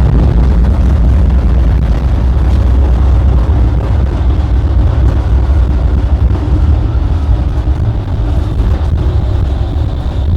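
An older, modernized tram in motion, heard from inside: a steady low rumble from the wheels on the rails and the running gear, easing a little near the end.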